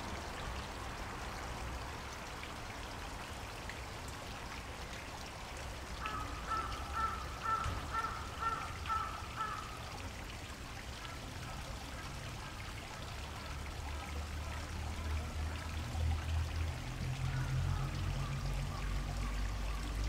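Water flowing and pouring steadily in a park stream. About six seconds in, a run of short, repeated high notes cuts through for a few seconds, and a low rumble rises near the end.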